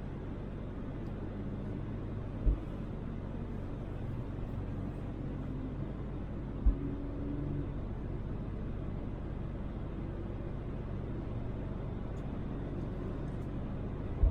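Steady low road and engine rumble inside a moving Toyota Land Cruiser 80, with two brief low thumps about two and a half and six and a half seconds in.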